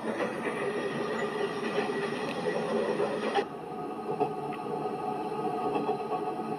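Running noise of a moving train heard from inside the carriage: a steady rumble and hiss with faint steady tones. About three and a half seconds in, the hiss suddenly drops and the sound turns duller.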